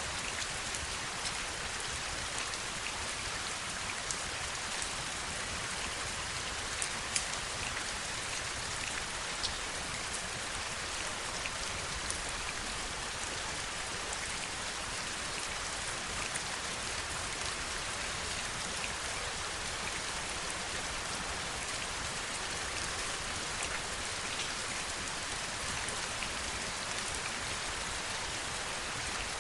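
Steady heavy rainfall: an even hiss of rain with scattered sharp drop ticks standing out from it.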